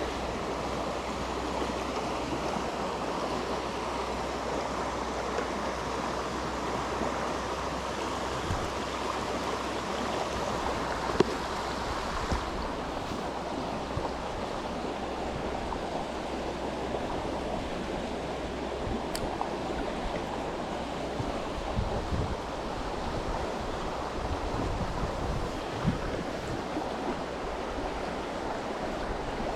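Creek water rushing steadily, with a couple of brief knocks.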